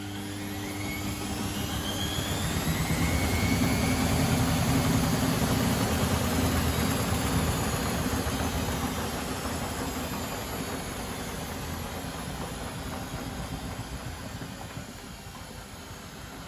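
Privileg Sensation 952 S top-loading washing machine spinning up: the motor whine rises in pitch as the drum speeds up, is loudest from about four to eight seconds in, then the spin winds down and fades.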